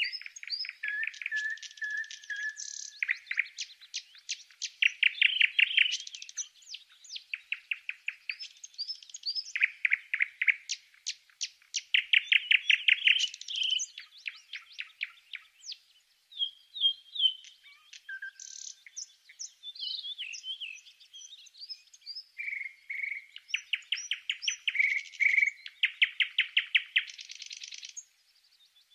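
A songbird singing: rapid trills of evenly repeated notes alternating with short whistles, in phrases a second or two long with brief gaps. The song breaks off shortly before the end.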